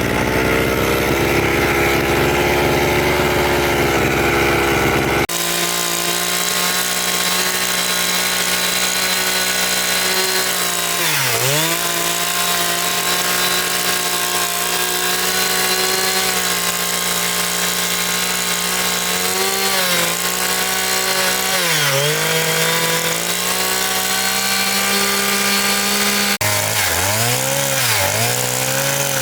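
A small engine running steadily, its pitch dipping sharply and recovering several times as if bogging under load, most often near the end. The sound changes abruptly twice.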